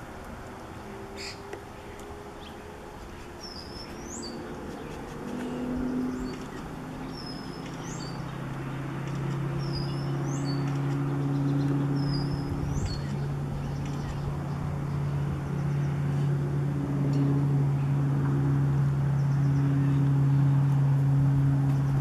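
A bird calling with four short, thin, rising chirps about two seconds apart. Under them a steady low motor hum sets in about eight seconds in and grows louder, becoming the loudest sound.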